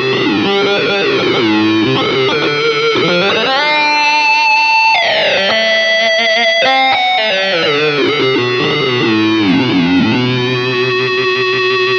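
Electric guitar played through an EarthQuaker Devices Data Corrupter PLL synth/harmonizer pedal, set to add a fifth with the root dropped an octave. It gives a thick synth-like tone, with held notes that slide in pitch from one to the next.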